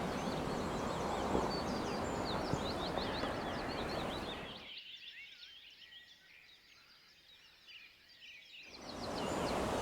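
Woodland birds chirping and twittering: many quick, high chirps all through, over a steady rushing background that drops away for about four seconds midway and then returns.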